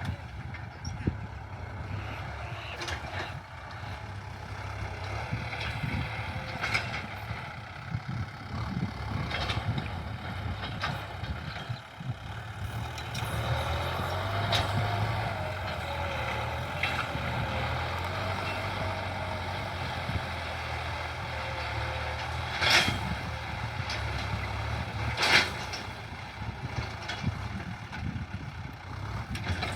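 John Deere tractor's diesel engine running steadily under load while ploughing, with scattered metallic knocks from the implement. A faint wavering whine comes in around the middle, and two sharp knocks near the end stand out as the loudest sounds.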